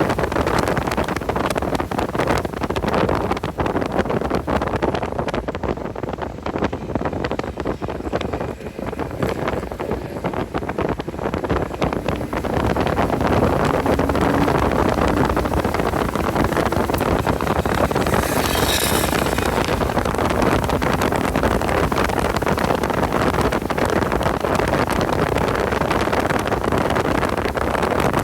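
Porsche 986 Boxster's flat-six engine running hard on track, heard onboard with heavy wind noise on the microphone. The sound eases for a few seconds in the first half, as if off the throttle, then holds steady and loud, with a brief hiss about two-thirds of the way through.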